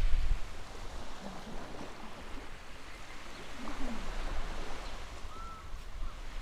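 Steady wash of waves and wind, with low wind rumble on the microphone and a faint short chirp about five seconds in.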